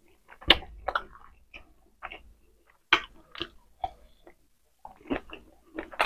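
Close-up chewing and mouth sounds of a person eating with her hands: irregular wet smacks and clicks as she chews rice and meat and bites into a hotdog.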